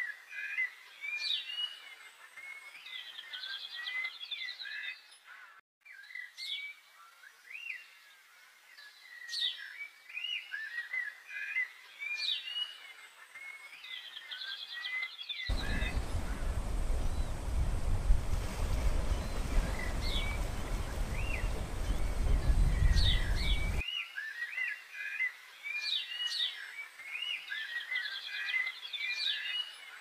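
A flock of birds chirping in many short, rising calls. About fifteen seconds in the chirping gives way to a louder, steady rushing noise with a deep rumble, which stops abruptly about eight seconds later, and the chirping returns.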